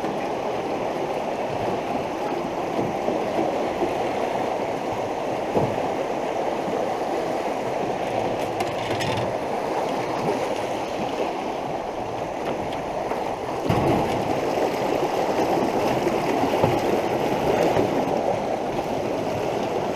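Fast, flood-swollen creek water rushing steadily, with a few short knocks now and then; it gets a little louder about two-thirds of the way through.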